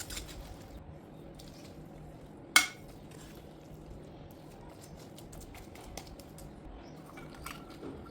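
A metal utensil clinks once against cookware about two and a half seconds in, with a short ring, and a few faint small clicks come later, over a low steady hum.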